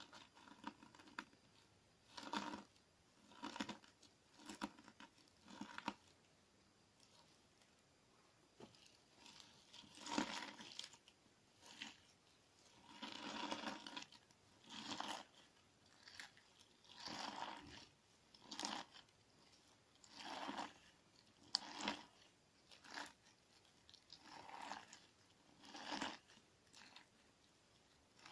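Sticky clear slime mixed with crunchy sand being pressed and worked, giving short crunching, crackling squishes at irregular intervals of a second or two, with quiet pauses in between.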